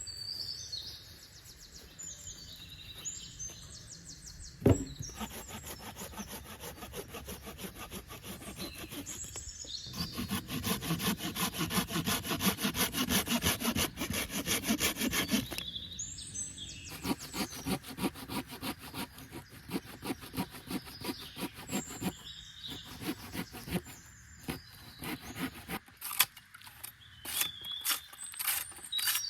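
Wood being cut with a hand saw in rapid, even strokes, loudest in the middle of the stretch, with one sharp knock early on. Birds chirp in the background.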